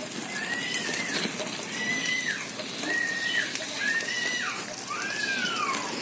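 A bird calls about five times, roughly a second apart, each call a whistled note that holds and then drops in pitch. Under it runs a steady sizzle of spiced paste frying in oil in a wok over a wood fire.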